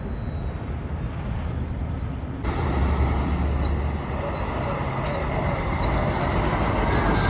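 Road noise from heavy trucks driving past, a steady low rumble of engines and tyres. About two and a half seconds in it cuts abruptly to a louder, brighter stretch of passing traffic.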